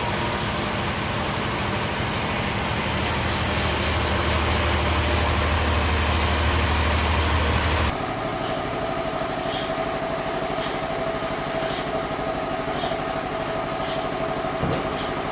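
Bandsaw sawmill running and cutting wood, a thick steady noise with a low rumble that builds over the first several seconds. About eight seconds in the sound changes abruptly to a lighter steady machine hum with a sharp tick about once a second.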